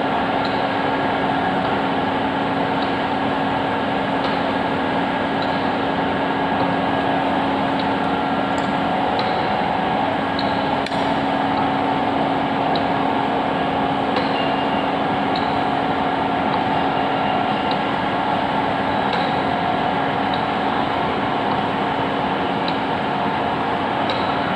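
Ravensburg L-500 facing lathe running steadily, its motor and gearing giving a constant hum with several fixed tones. A faint tick repeats about every 1.2 seconds, as the big faceplate turns.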